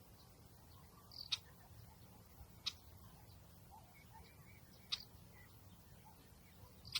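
A bird's short, sharp chip calls, four in all, a second or two apart, over a faint low outdoor rumble.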